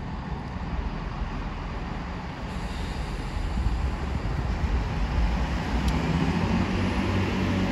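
A train approaching the station: a continuous low rumble that grows steadily louder, with steady engine tones coming in near the end.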